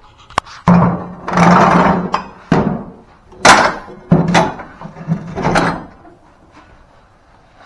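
A string of loud metal clanks and scrapes, heavy mower parts being handled and shifted into place, about five or six knocks with a low ring under several of them, dying away about six seconds in.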